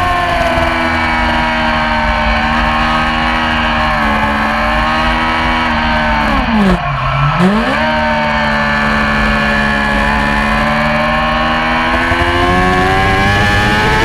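Yamaha R6 600 cc inline-four racing motorcycle engine running at high revs under race load. Near seven seconds in the revs drop sharply and recover, then climb steadily.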